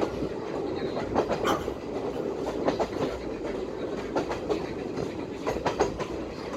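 Passenger train running on its track: a steady rumble of wheels on rail, with irregular sharp clicks and knocks as the wheels pass over rail joints.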